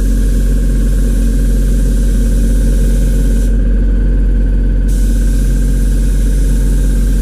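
Electric pressure washer running with a steady low hum while water sprays in a hiss on the condenser coil. The spray hiss stops about three and a half seconds in and starts again a second and a half later while the hum carries on.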